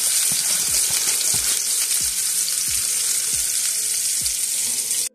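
Diced onion sizzling steadily in hot chicken grease and drippings in a skillet.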